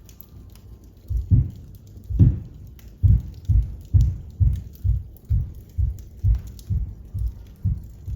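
Faint crackling of a wood fire, overtaken from about a second in by a run of dull low thumps, about two a second, like heavy footsteps.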